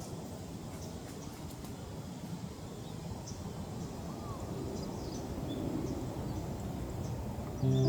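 Outdoor ambience: a steady low rumble of background noise with a couple of faint bird calls. Background music comes in right at the end.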